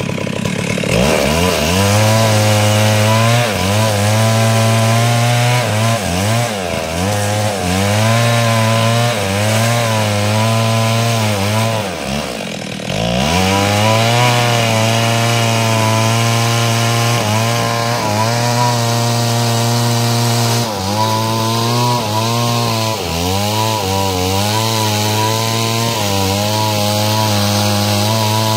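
Stihl two-stroke chainsaw ripping a log lengthwise into planks, its engine running at high revs under load. Its pitch sags and recovers again and again as the chain bites, and about twelve seconds in it drops sharply before picking straight back up.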